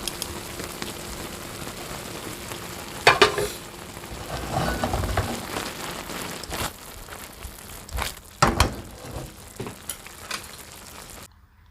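Lettuce stir-frying in a pan, sizzling steadily while being stirred, with a few sharp knocks about three seconds in and again about eight and a half seconds in. The sizzle stops abruptly near the end.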